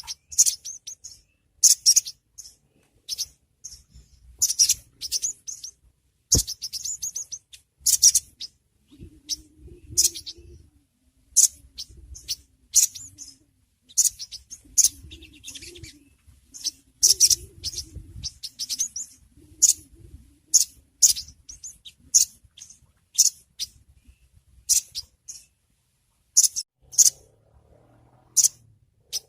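Little spiderhunter (sogon) calling: short, sharp high chips, given singly or in quick runs about once a second.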